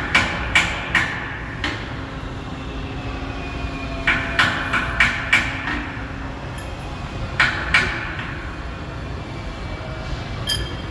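Hammer blows on steel come in three quick runs (about four strikes, then five, then two), each ringing briefly, over a steady low rumble.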